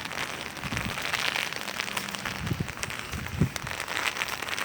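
Steady rain with many sharp ticks of drops striking an umbrella close overhead, broken by a couple of brief low gusts of wind on the microphone.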